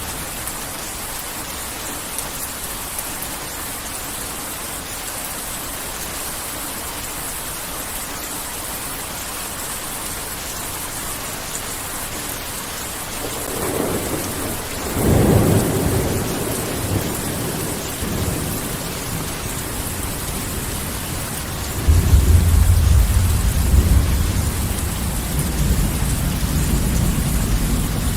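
Heavy steady rain with two rolls of thunder: a rumble building about halfway through, then a louder, deep rumble breaking in sharply a few seconds later and rolling on as it slowly fades.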